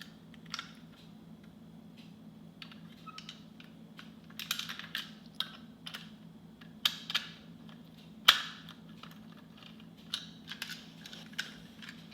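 Scattered light clicks, taps and scrapes of a hard plastic toy and its screws being handled, with one sharper click about eight seconds in.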